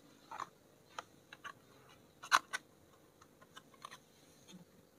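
Light clicks and taps of a small cardboard milk carton being handled as it is lifted off a block of milk pudding, the loudest two close together a little past two seconds in.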